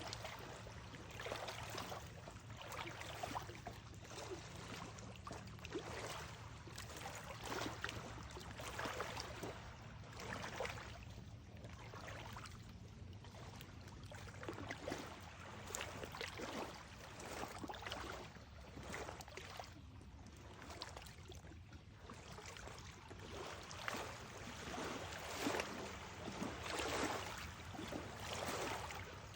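Running water, steady, with many small irregular splashes, over a low steady rumble.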